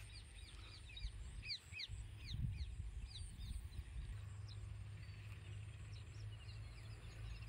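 Small birds calling: a run of quick, high chirps that each fall in pitch, coming thick at first and thinning out about halfway, over a low rumble.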